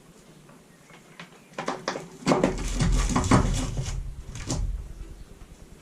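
Handling of the blower's parts on the bench: a series of knocks, clicks and clatter, loudest in the middle, as pieces and tools are moved and set down.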